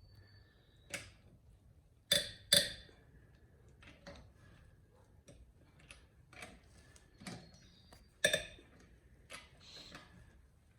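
Irregular sharp metallic clinks and knocks, some ringing briefly, from a socket wrench on a car wheel's lug nuts as they are tightened down by hand. The loudest clinks come a couple of seconds in and again near the end.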